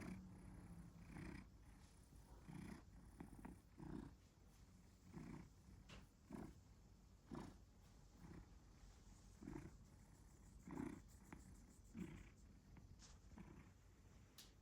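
Domestic cat purring faintly, in pulses that swell and fade about once a second with its breathing.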